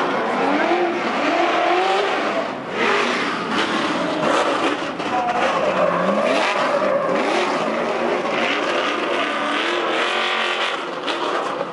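Trophy truck engines revving, several rising and falling engine notes overlapping in a dense, loud wash.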